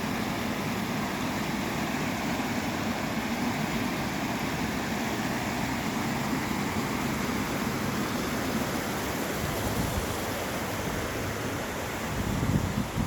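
Steady rushing noise, even and unbroken, with uneven low rumbles coming in near the end.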